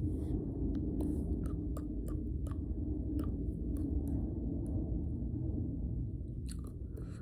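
Close-up mouth sounds of someone chewing: a dozen or so short, irregular wet clicks and smacks over a steady low hum.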